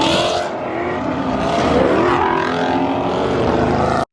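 Car engine running loud under acceleration as the car drives past, its pitch falling and then climbing again partway through.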